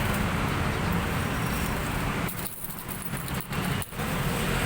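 Steady outdoor street background with a low traffic rumble, which drops away briefly a few times in the second half.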